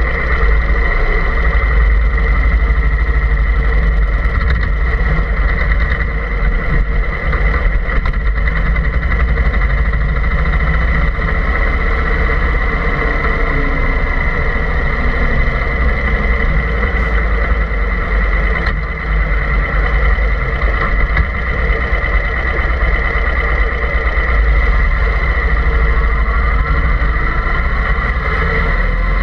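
Steady engine drone with a constant low rumble and a steady high whine, unchanging throughout.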